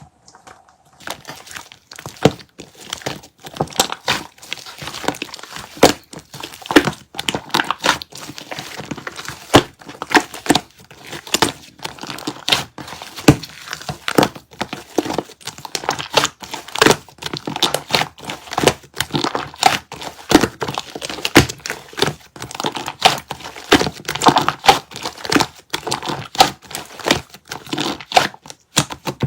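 Red clear slime with shaving foam being mixed and kneaded by hand: a dense, irregular stream of sticky crackles and pops from trapped air. The sound starts about a second in.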